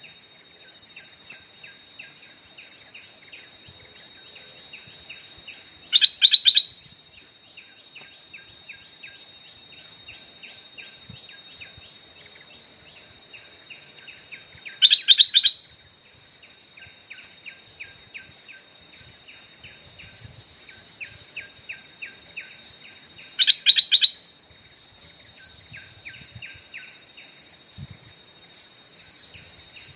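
Stripe-throated bulbul calling: a loud, short, bubbling phrase three times, roughly every eight or nine seconds, with fainter quick chattering notes in between.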